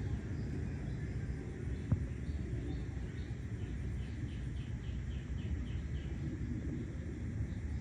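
Outdoor background with a steady low rumble. Short high chirps repeat from about two seconds in, and there is one sharp click just before they start.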